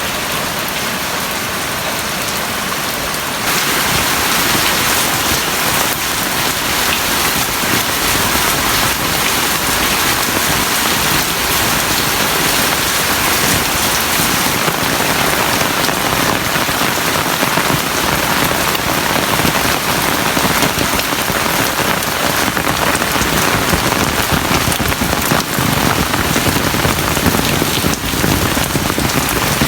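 Heavy rain falling in a steady, dense hiss, stepping up louder about three and a half seconds in.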